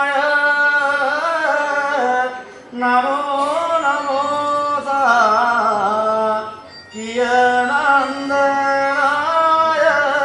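A single voice singing slow, long-held, ornamented phrases: three phrases, each broken off by a short breath.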